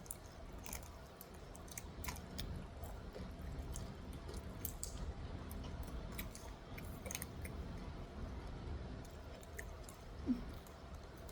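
A person chewing a crispy fried Jack in the Box taco: faint, scattered crunches and small clicks of chewing, with one brief low sound near the end.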